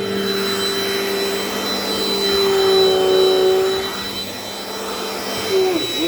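Dirt Devil Dynamite Plus vacuum cleaner running with a steady motor whine. Its pitch sags lower and louder for a while from about two seconds in, then dips sharply once just before the end and recovers.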